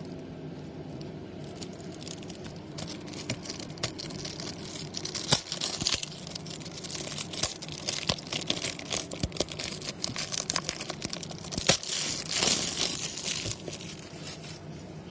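Plastic and paper crinkling and tearing with irregular clicks and rustles: trading-card pack wrappers being torn open and cards handled. The sound comes in short irregular bursts, busiest through the middle.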